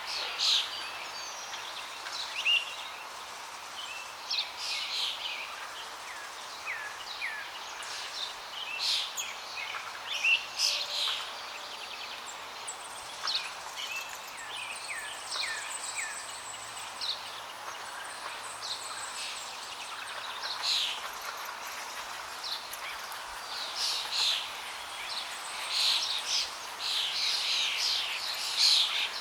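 Several birds chirping and singing over a steady rush of flowing water, with quick chirps and short whistled notes coming throughout.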